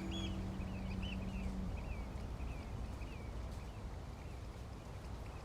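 Outdoor ambience: small birds chirping in short, repeated calls over a steady low rumble, while a held music drone fades out about one and a half seconds in.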